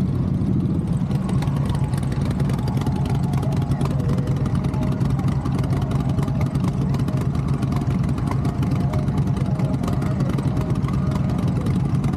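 Motorcycle engine running steadily at a constant pace, with a dense, even low pulsing from its firing.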